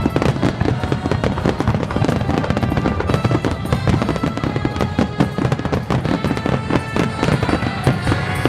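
Fireworks display in a dense barrage: many shell bursts and crackles in rapid succession, with music playing underneath.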